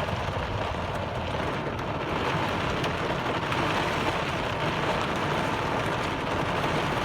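Heavy rain pouring down, a dense steady hiss of a downpour that shows no sign of letting up.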